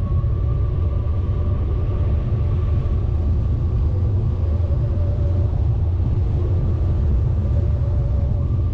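A vehicle driving: a steady, loud low rumble of engine and road noise with no change in pace.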